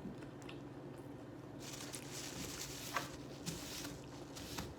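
Faint rustling with a few soft clicks over a steady low hum.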